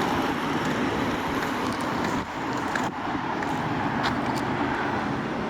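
Steady rumbling noise of cars and road traffic.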